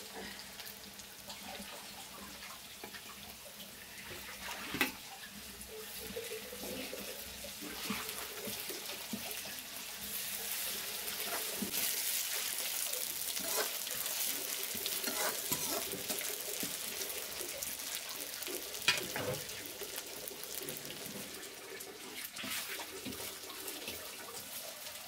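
Food sizzling in hot oil in an aluminium kadai while being stirred with a metal ladle, the sizzle growing louder about ten seconds in. A couple of sharp clinks of the ladle against the pan.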